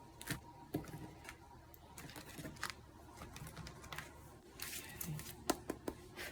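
Tarot cards being handled and shuffled: a run of irregular light clicks and snaps, with a short rustle near the middle.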